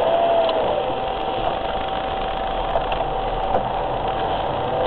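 Steady car engine and road noise with a faint steady whine, as heard from inside a moving car.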